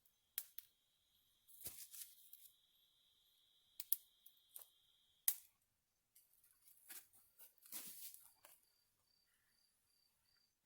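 Small dry twigs of a kindling campfire crackling and snapping, faint, with a scatter of sharp cracks; the loudest comes about halfway through. A thin steady high tone runs through the first half, and a quick pulsing high tone comes near the end.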